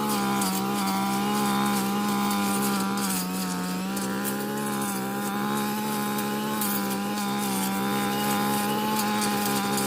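Small two-stroke engine of a handheld forestry power tool running at high, steady revs, holding one pitch with only slight wavers.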